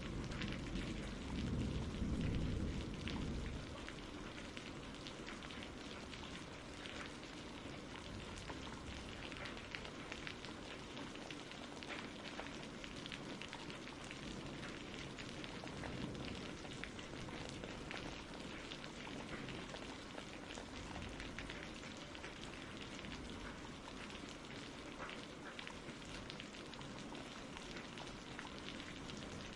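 Steady rain falling with a patter of drops, and a low rumble of thunder dying away in the first few seconds.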